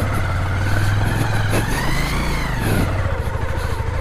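Motorcycle engine running at low speed on a rough, slippery track, the revs rising and dropping back about halfway through.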